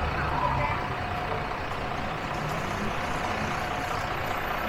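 City street traffic: a steady wash of vehicle noise, with a heavy vehicle's low engine hum fading out about half a second in.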